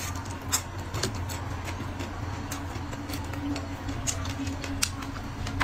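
Close-miked eating sounds: irregular chewing clicks and mouth smacks, a few sharper than the rest, over a steady low hum.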